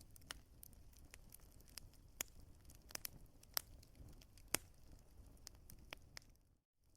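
Burning wood in a fire crackling, with sharp pops at irregular intervals over a low, steady rumble; the sound cuts out for a moment near the end.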